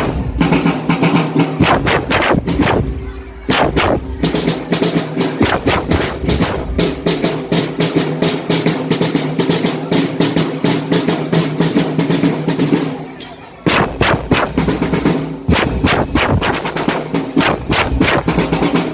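Marching drum band playing: fast snare drum strokes and rolls with bass drums, over held low melodic notes through the middle. The playing drops off briefly about three seconds in and again near thirteen seconds, then the drums come back in.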